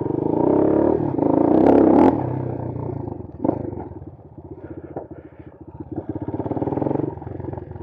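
Bashan Brozz 250 dual-sport motorcycle engine pulling hard on the throttle, then easing off and picking up again while riding a dirt trail. A couple of sharp clatters come about two seconds in, and a knock follows a little later.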